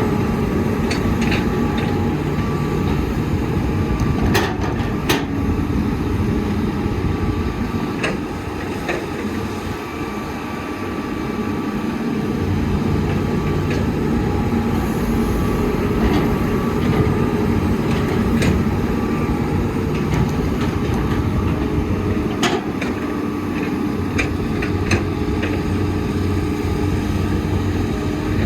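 Heavy diesel engine of an excavator running steadily, its low drone easing briefly twice, with scattered sharp metallic clanks.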